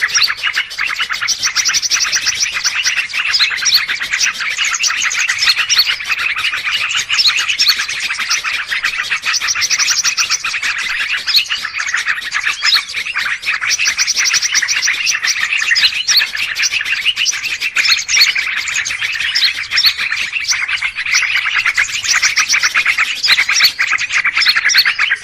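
Many small birds chattering, chirping and trilling at once in a dense, unbroken din. This is a mixed 'noisy birds' lure recording of the kind played to draw wild birds in for trapping.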